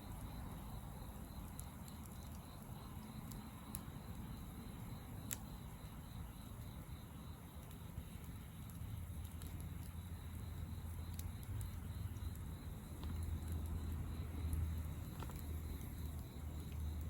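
Wood fire crackling quietly, with a few sparse, sharp pops over a low rumble that swells about halfway through.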